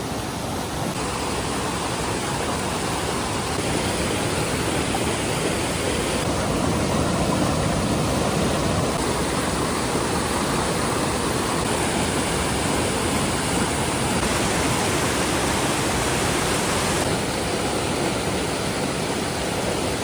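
A mountain creek swollen by flood after heavy rain, its water rushing steadily and loudly.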